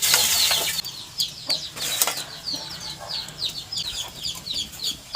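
Chicks peeping continuously, several short high calls a second, with a brief hiss at the start and another about two seconds in.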